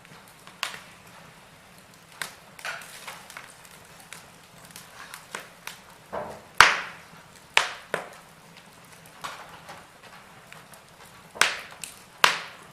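Wood fire crackling in a fireplace: irregular sharp pops and snaps with quieter crackle between, the loudest pop about six and a half seconds in and two more strong ones near the end.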